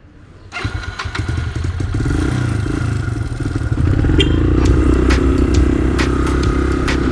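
Suzuki motorcycle engine coming in suddenly about half a second in and running, growing louder around four seconds in, with sharp clicks over it.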